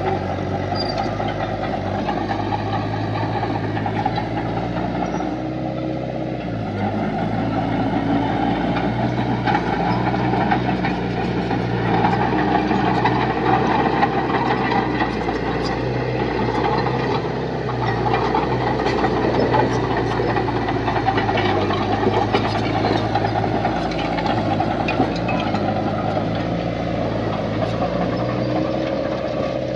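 Heavy diesel engine of construction machinery running steadily under a constant drone, with a few faint clicks and rattles over it.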